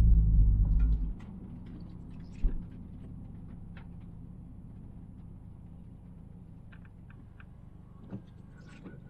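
Car engine pulling hard, heard from inside the cabin, drops off abruptly about a second in, leaving a quiet steady low engine rumble. Scattered light ticks and one short thump about two and a half seconds in.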